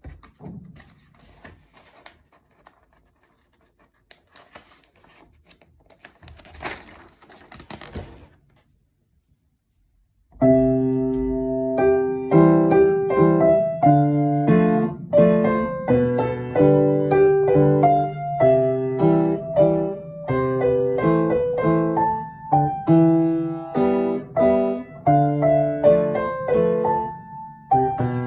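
Faint rustling and small knocks, a brief silence, then piano playing begins about ten seconds in: a lively piece of many quick notes and chords that continues throughout.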